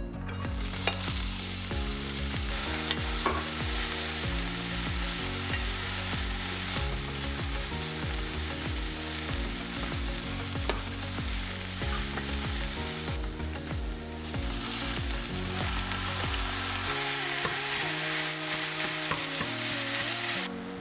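Chopped onion, carrot and green pepper sizzling in hot oil in a frying pan, stirred with a wooden spoon, with a few sharp ticks of the spoon against the pan. The sizzle dips briefly about two-thirds of the way through. Soft background music plays underneath.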